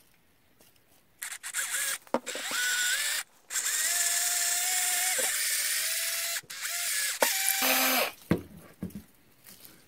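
Power drill boring a cavity into a corn cob, run in several bursts after a brief quiet start, the longest about three seconds, its motor whine rising as it spins up.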